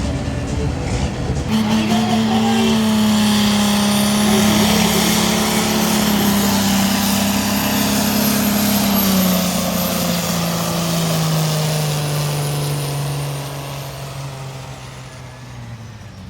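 Competition pulling tractor's engine at full power dragging the weight sled. Its note jumps up loud about a second and a half in, then sinks slowly in pitch as the load builds, and fades near the end.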